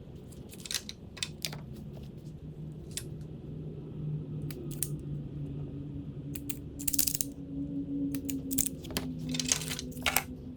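Scattered light clicks, ticks and brief rustles of hands working wires and small tools into a car's wiring harness, over a low hum in the background. The rustling is busiest in the second half.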